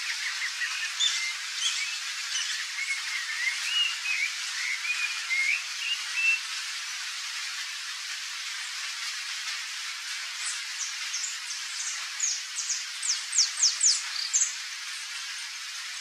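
Wild birds calling over a steady hiss: a run of short warbled notes through the first six seconds, then, from about ten seconds in, a fast series of high, descending notes that stops near the end.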